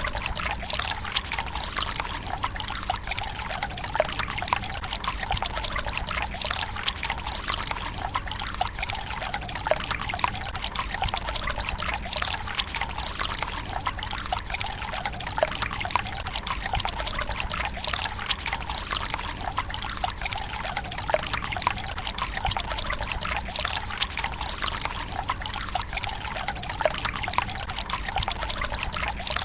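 Water pouring steadily from a bamboo spout into a Japanese tsukubai stone basin: a continuous trickle and splash, thick with tiny droplet ticks.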